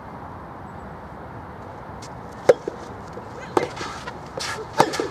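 Soft tennis rally: a rubber soft tennis ball struck by rackets, three sharp hits about a second apart over steady background noise.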